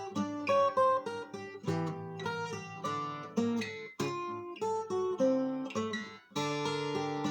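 Twelve-string acoustic guitar from the Lunacharsky factory being played, chords and notes picked and strummed in quick succession with a couple of brief breaks.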